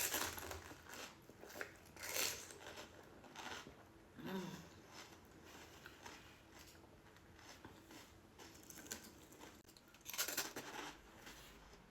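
Crunching and chewing of panipuri, the crisp hollow puri shells breaking between the teeth in scattered short bursts, with the loudest crunch about ten seconds in.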